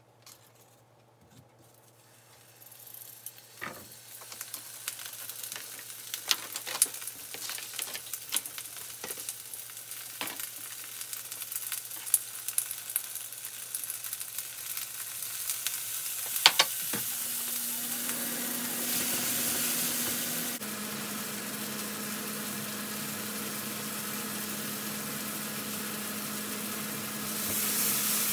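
Garlic cloves, green beans, cherry tomatoes and red onion sizzling in oil in a frying pan, starting about two seconds in and growing louder, with frequent sharp pops. About two-thirds through, a steady hum joins the sizzle.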